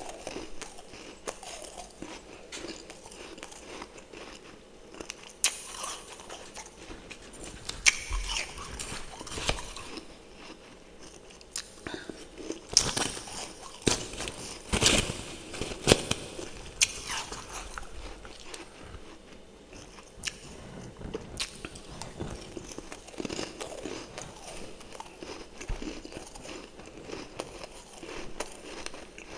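Close-up biting and chewing of refrozen freezer frost topped with fresh powdery frost: irregular sharp crunches and crackles, heaviest in a cluster around the middle.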